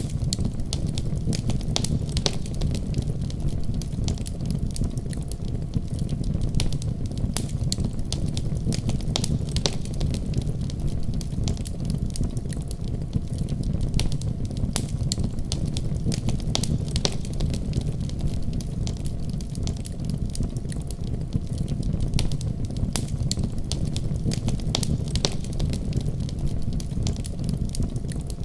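Wood fire burning in a fireplace: a steady low rumble of the flames with frequent sharp crackles and pops throughout.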